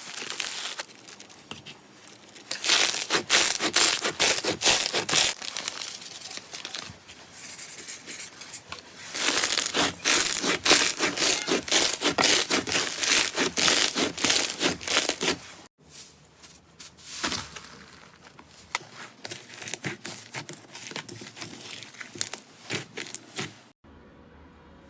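Slime being squeezed and pressed by hand close to the microphone, with dense crackling and popping in loud stretches. It breaks off suddenly twice, the second stretch quieter.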